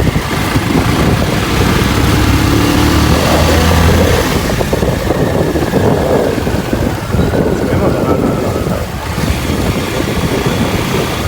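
Motorcycle engine running while riding, with wind buffeting the microphone. A steady low engine drone is strongest in the first few seconds.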